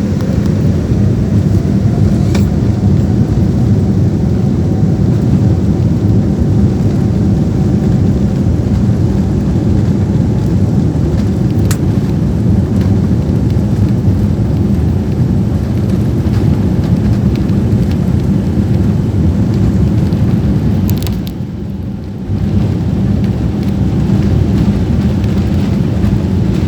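Jet airliner engines at takeoff power heard from inside the cabin: a loud, steady low rumble, with a faint whine rising over the first few seconds as the engines spool up. The rumble dips briefly about 21 seconds in.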